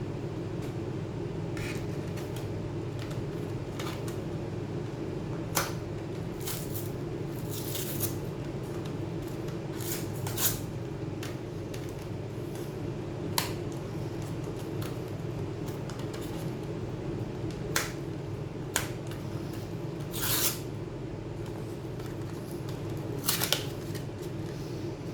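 Small tools and metal parts handled on an opened laptop: scattered sharp clicks and a few short scrapes, over a steady low hum.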